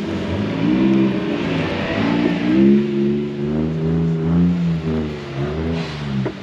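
Car engine revving hard in repeated swells, its pitch climbing and dropping several times in a row.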